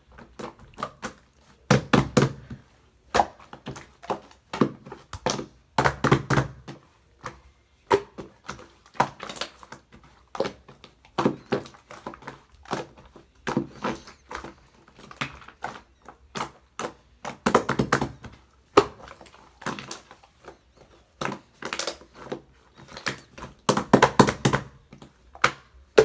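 Slime being kneaded and squeezed by hand, giving a run of wet clicks and pops, with louder crackling clusters every few seconds.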